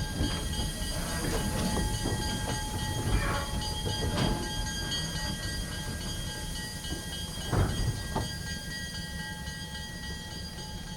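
Canadian Pacific RS-23 diesel locomotive standing at idle, its engine a steady low rumble with a few thin steady tones above it.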